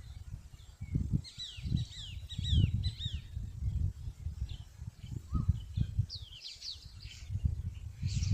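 Small birds chirping outdoors: a quick run of short, falling high whistles, then scattered chirps a few seconds later, over irregular low rumbling.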